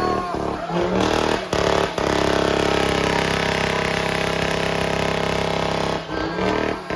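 A car engine revving, then held at steady high revs for about four seconds before easing off near the end.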